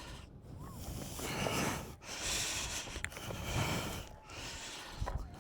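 Minelab GPX 6000 gold detector giving faint rising-and-falling target tones as the coil is swept over a spot, the signal holding after a suspected hot rock has been moved aside, a sign the target is in the ground. Several stretches of hiss, each about a second long, come between the tones.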